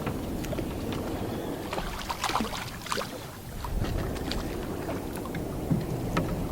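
Steady wind and water noise aboard a small fishing boat, with scattered light clicks and knocks.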